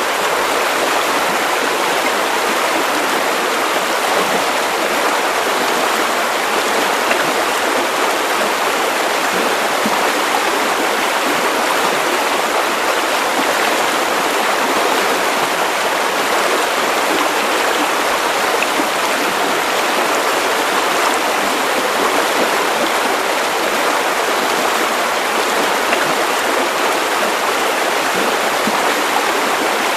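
Steady white noise: an even, unchanging hiss with little deep rumble.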